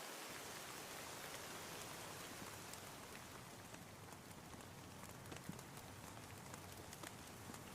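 Steady rain falling, a soft even hiss sprinkled with small drop ticks.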